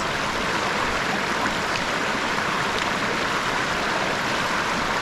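A river's water flowing, a steady even noise without breaks.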